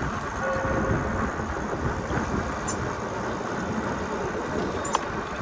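Steady rumbling noise of wind on the microphone and rolling traffic while riding a bicycle, with one short click near the end.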